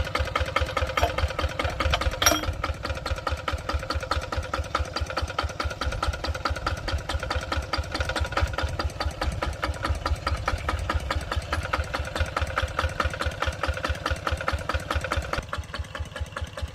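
An engine running steadily at idle with a fast, even beat. There is a sharp click about two seconds in, and the sound drops a little near the end.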